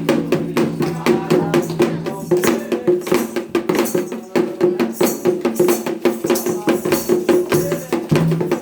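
Candomblé ritual music: hand percussion struck in a fast, steady rhythm, with sustained sung voices carrying a chant over it.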